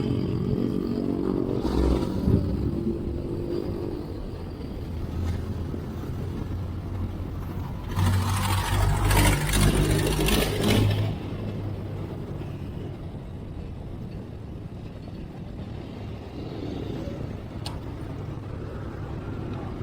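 Road traffic heard from a moving bicycle: a motor vehicle's engine near the start, then a louder vehicle passing from about eight to eleven seconds in, over a steady road rumble.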